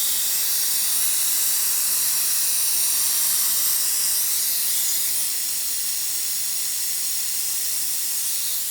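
Vacuum brake bleeder hissing steadily as it draws brake fluid out through the caliper's loosened bleed nipple; the hiss drops a little about five seconds in.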